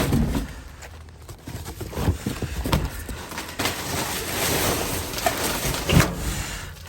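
Rummaging through trash in a dumpster: rustling and shuffling of boxes and bags, with scattered knocks and thumps, the loudest about six seconds in.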